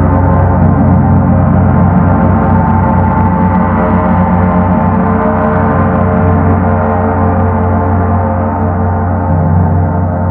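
Paiste Sedna planet gong sounding with a loud, sustained rumble: a dense mass of many ringing tones over a strong low hum that pulses and swells.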